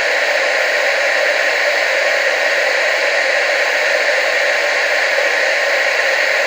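Television static: steady, unchanging hiss, heavier in the mids and treble with almost no bass.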